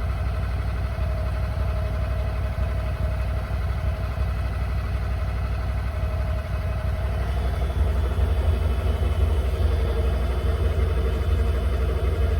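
Engine of a Cub Cadet Big Country utility vehicle running steadily, a continuous low rumble.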